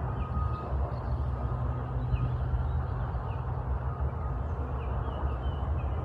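Steady low rumble of a nearby truck engine, with faint short high chirps from small birds scattered through it.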